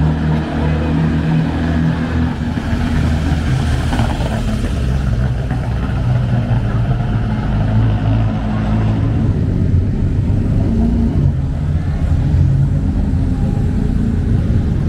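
Engines of vintage cars running at low revs: a loud, low engine note in which more than one engine's pitch overlaps and shifts.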